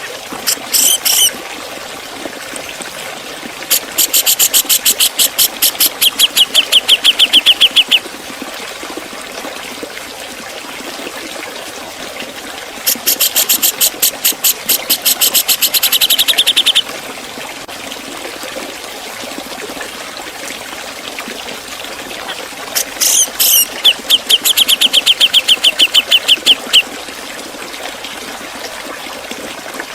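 Cucak jenggot (grey-cheeked bulbul) calling in four runs of fast, sharp, high repeated notes, several a second, each run lasting up to about four seconds. A steady trickling hiss of water runs underneath.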